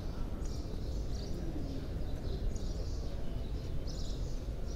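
Steady low background noise of a large hall, with small birds chirping briefly over it every second or so.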